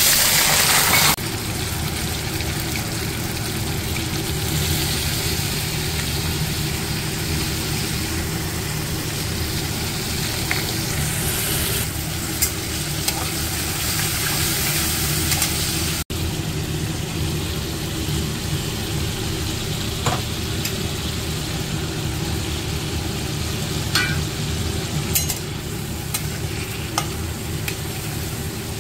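Potato cubes frying in hot oil in an aluminium kadhai: a steady sizzle, louder for the first second as the potatoes go into the oil. A few sharp clicks of the metal spatula against the pan come through as they are stirred.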